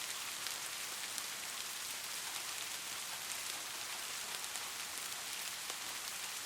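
Steady rain falling, a dense hiss of drops with many small individual drop ticks.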